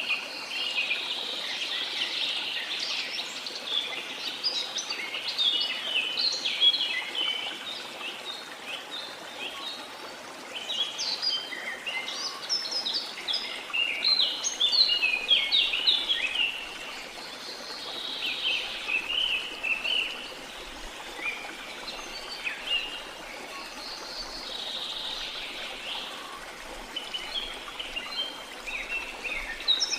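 Small songbirds chirping and twittering almost without pause, several calls overlapping, over a soft steady wash of water.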